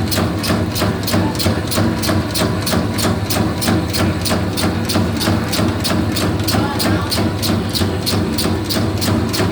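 Bakso (meatball) forming machine running steadily: a motor hum under a fast, even clacking of about four strokes a second.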